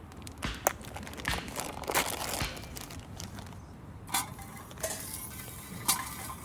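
Camp cookware being handled: scattered clinks and knocks, a few of them sharper, about 1, 2, 4 and 6 seconds in.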